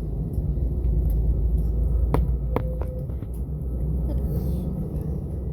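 Low, steady rumble in the cabin of an Airbus A320 taxiing, with a few sharp clicks about two seconds in.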